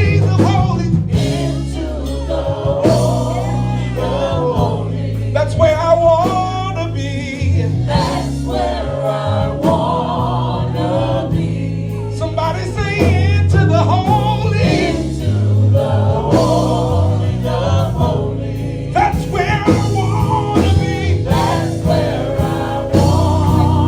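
Gospel worship music: several voices singing together over instrumental accompaniment with steady held low notes.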